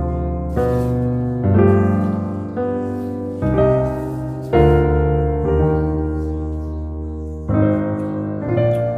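Background piano music: slow, gentle chords, a new one struck every second or so and left to fade.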